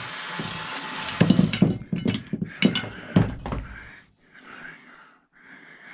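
A steady hiss for about the first second, then a run of knocks and thunks of metal parts and tools being handled on a workbench, followed by quieter scraping and rustling near the end.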